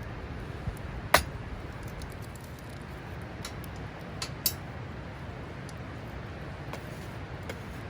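A few sharp clicks and light clinks, the loudest about a second in and a small cluster around four and a half seconds in, over a steady rushing background.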